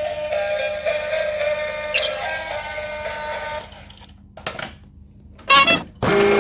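Synthesized electronic music made of steady beeping tones. The tones shift about two seconds in, drop away for a short pause past the middle, and come back in loud short phrases near the end.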